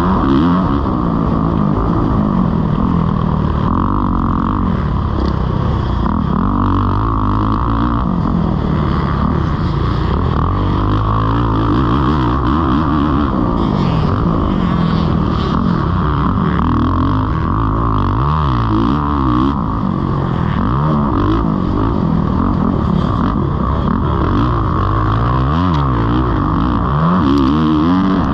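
Kawasaki KX450's four-stroke single-cylinder engine revving up and down over and over as the dirt bike is ridden hard around a motocross track, the pitch rising under throttle and dropping off between pulls.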